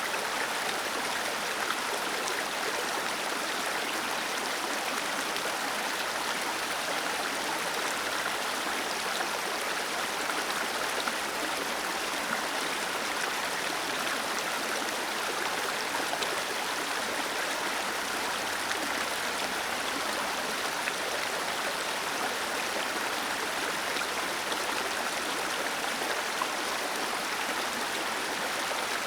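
Small waterfall splashing and rushing steadily, an even hiss of falling water with no breaks.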